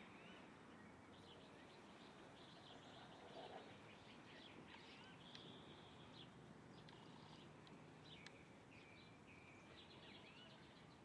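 Faint bird chirps and calls, many short notes with a few longer held ones, over a steady faint hiss.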